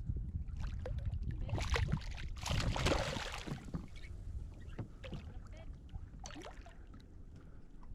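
Water splashing and sloshing around a fishing kayak, with short knocks on the hull. The loudest splash comes about three seconds in. Wind rumbles on the microphone in the first two seconds.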